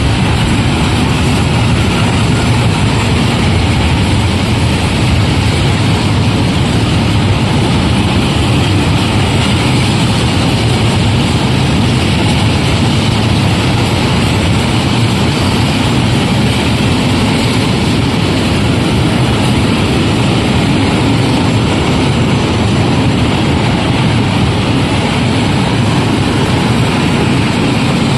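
Freight train rolling past on the track: a loud, steady rumble of wagon wheels on the rails.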